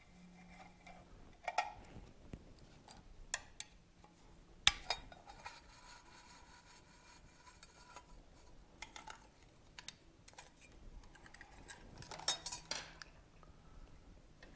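Hand tools and metal parts clinking and clattering on a workbench. One sharp metallic clank about five seconds in rings on for a few seconds, and there is a flurry of rattling near the end.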